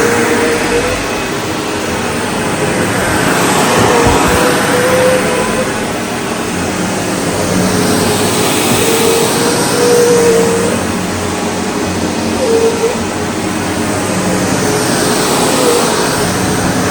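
SEBO Automatic X4 bagged upright vacuum cleaner running, a loud steady motor noise whose tone rises and falls in slow waves every few seconds as it is worked over the floor.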